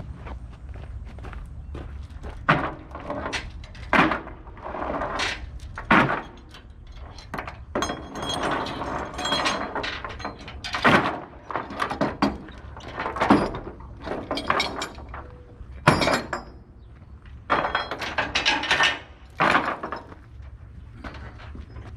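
Irregular metal clanks, knocks and scraping, a dozen or more sharp strikes with rattling in between, over a steady low rumble: metal gear being handled while unloading a tractor.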